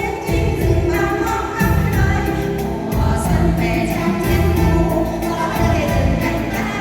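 A women's group singing together over a backing track with a steady beat.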